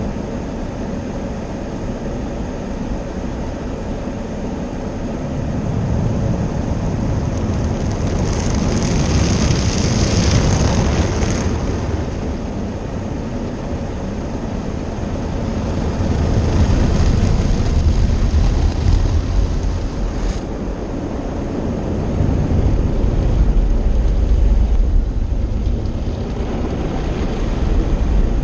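Automatic car wash machinery running over a car: a steady loud wash of water spray and equipment noise that swells and eases several times as the car moves through.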